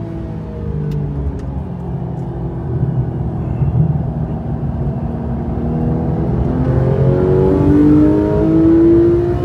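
Porsche sports car engine heard from inside the cabin on track: held lower and rougher through a slow corner, then revving out under hard acceleration from about two-thirds of the way in, its pitch rising steadily and getting louder, over road and tyre noise.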